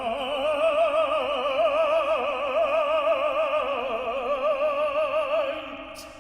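An opera singer holding one long high note with a wide, even vibrato, fading out about five and a half seconds in.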